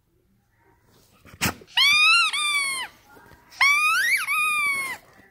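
Two long, high squeaks of a squeaky toy played back from a recording, the second rising in pitch before it drops away, after a single sharp click.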